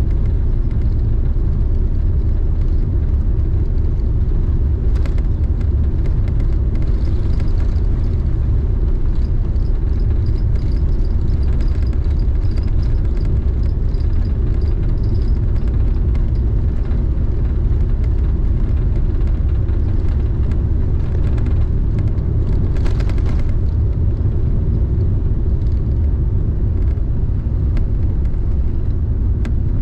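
Steady low rumble of an Airbus A380-800's engines and airflow heard inside the passenger cabin, with a few faint clicks.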